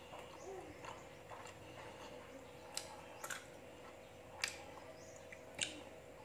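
Quiet chewing of sticky rice cake with pandan topping, with a few sharp mouth smacks in the second half.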